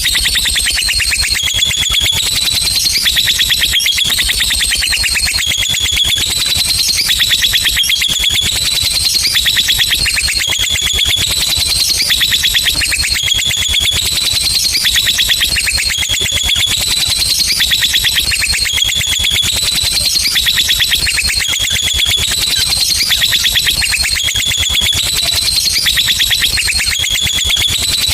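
Lovebird singing a long 'ngekek': a shrill, very rapid chatter that runs on without a break, its pitch wavering up and down in a repeating pattern.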